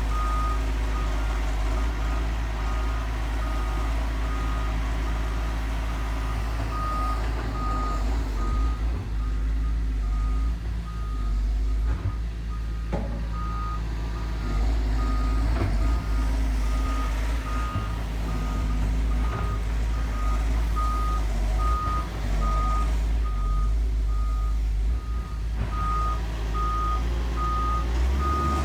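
Komatsu excavator working, its diesel engine running with a steady low rumble while its travel alarm beeps a single high tone about twice a second. A few sharp knocks come around the middle.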